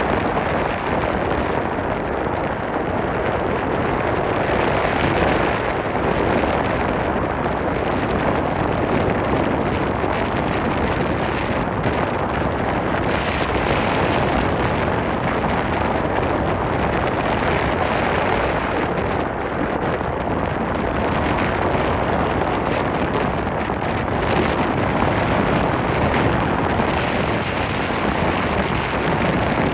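Cyclone-force wind of over 60 km/h blowing hard across the microphone. It makes a dense, steady rumble that swells and eases with the gusts.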